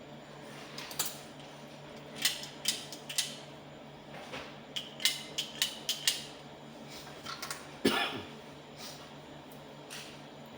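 Small hard parts being handled: a series of clicks and light metallic clinks, with a louder clatter about eight seconds in, over a steady low hum.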